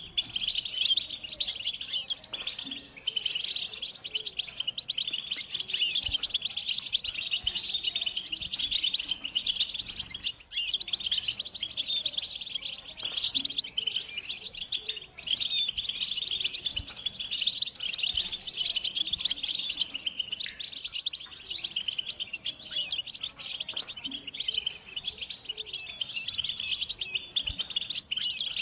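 A group of European goldfinches singing and chattering together: a dense, unbroken stream of quick twittering and tinkling notes, the kind of chorus used as a lure to set male goldfinches singing.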